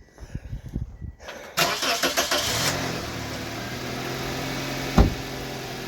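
A 2006 Toyota Corolla's engine is cranked by the starter for about a second and a half, then catches and starts. It revs briefly and settles into a steady idle: the new crankshaft position sensor has cured its crank-but-no-start fault. A single thump comes about five seconds in.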